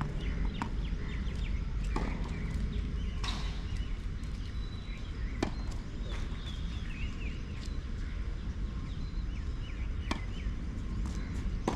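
Tennis balls struck by rackets during a rally: several sharp separate hits a second or more apart, over a steady low rumble, with a few short high chirps between them.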